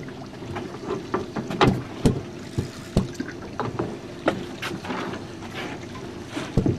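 Small jon boat on open water: water slapping and splashing against the hull, with irregular knocks and a steady low hum underneath.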